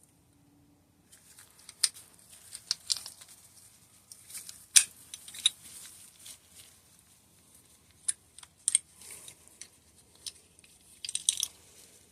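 Irregular small clicks, taps and crunchy scraping from working a hydraulic disc brake caliper's piston by hand and handling small metal parts, starting about a second in.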